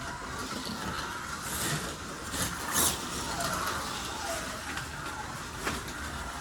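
Scalextric slot cars running on a plastic track: a steady electric-motor whine that rises and falls in pitch, with a few sharp clicks and clatters from the cars.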